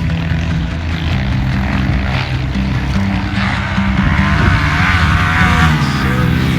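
Dirt bike engine running on the track, its pitch rising and falling as it revs, with background music underneath.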